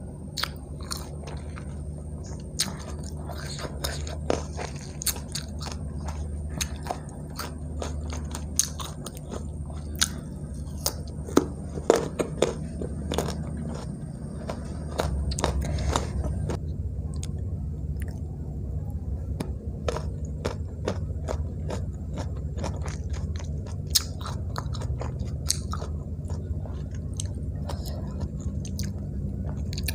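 Close-miked chewing of crisp young mango slices coated in rujak sauce: repeated crunches and wet mouth clicks, loudest about a third of the way in, over a steady low hum.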